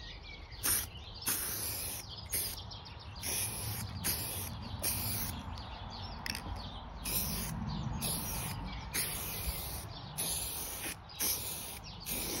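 Garden birds chirping and singing in short, irregular phrases over a steady low outdoor background rumble.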